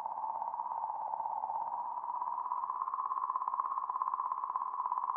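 Sonified recording of comet 67P/Churyumov-Gerasimenko's 'song': an eerie, wavering tone that rises slowly in pitch, with a rapid, fine clicking running through it. It is the sound of vibrating plasma in the comet's magnetic field, scientists believe.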